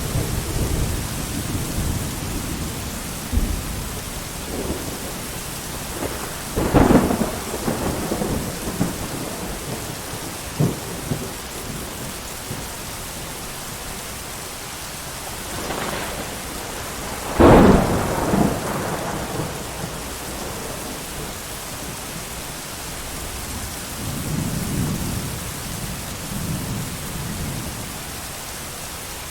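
Steady heavy rain with thunder: low rumbling at the start, two sharp loud thunderclaps, one about a quarter of the way in and one past the middle, and a softer rolling rumble near the end.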